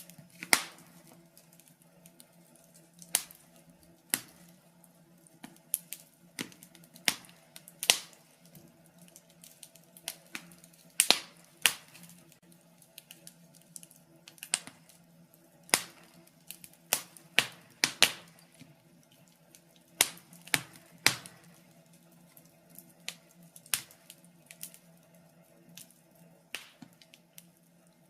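Fire in a fireplace crackling, with irregular sharp pops and snaps, a few of them much louder than the rest. A faint steady low hum runs underneath.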